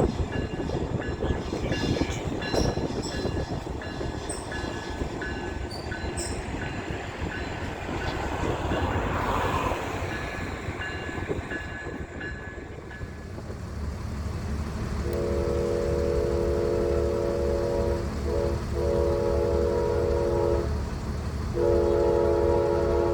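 Train rumbling and clattering with a quick repeating high ding for the first half. About two-thirds in, a deep engine drone builds and a locomotive's multi-chime air horn sounds in long blasts, broken twice briefly.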